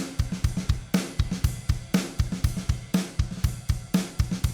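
Recorded drum kit pattern of kick, snare, hi-hat and cymbals playing steadily, with a strong accent about once a second, heard through a compressor set to a higher ratio with extra makeup gain.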